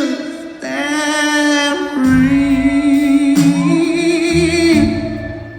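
Live soul band playing, with a singer holding long, wordless sung notes with vibrato. Bass notes come in about two seconds in.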